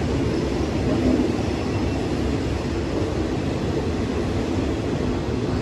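Passenger train running, heard from on board: a steady low rumble of wheels and carriage as it rolls slowly along the station platforms.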